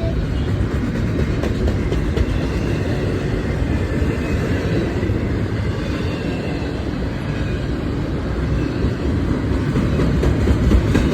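Intermodal freight train of container-carrying well cars rolling past at close range: a steady, loud rumble of steel wheels on rail with clickety-clack from the rail joints.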